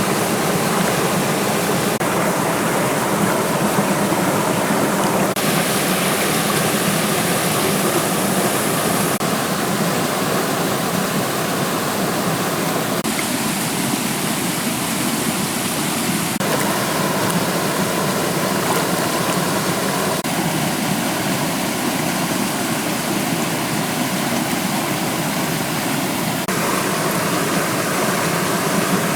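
Steady rushing water like a stream. Its tone shifts abruptly every few seconds.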